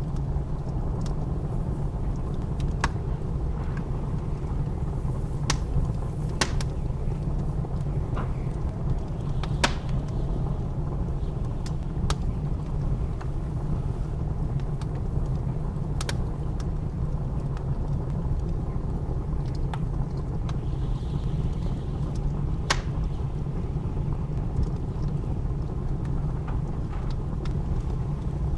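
Wood fire crackling, with scattered sharp pops every second or few, over a steady low rumble of blizzard wind.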